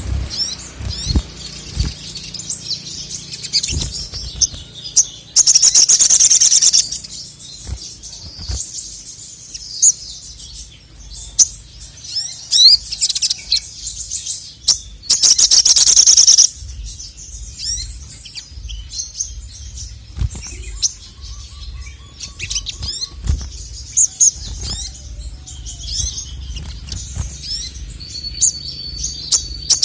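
Male crimson sunbird (sogok ontong) singing: a run of short, high-pitched chirps and twitters broken by two loud, fast rattling trills, each about a second and a half long, the first about five seconds in and the second about fifteen seconds in.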